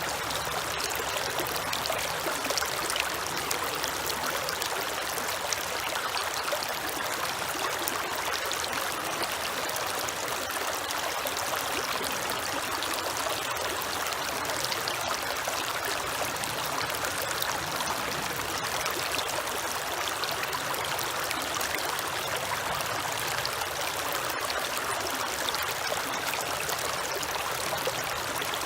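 Creek water running over rocks: a steady rushing and trickling that does not change.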